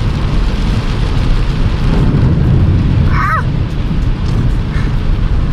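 Toyota 4Runner driving through deep flood water on the road, water rushing and spraying against the vehicle with a steady low rumble.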